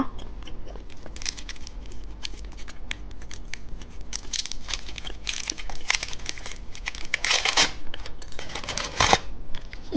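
Candy wrapper being torn open and crinkled by hand: a run of irregular rustles and crackles, with two louder tearing stretches in the last few seconds.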